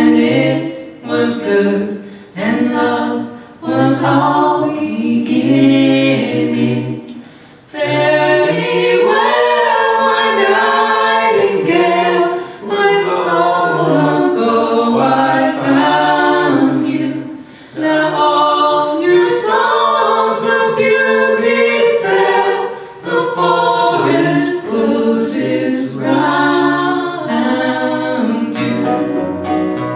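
A small vocal group singing a cappella in close harmony: several voices holding long chords, phrase after phrase, with brief breaths between lines.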